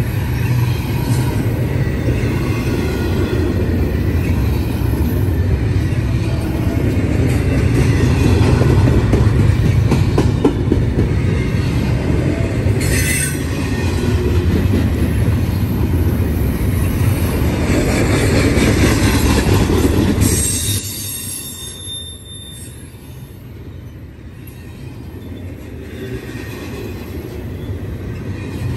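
CSX double-stack intermodal freight train rolling past: a loud, steady rumble of wheels on rail with high wheel squeals at times. About two-thirds of the way through it drops off sharply, then slowly builds again.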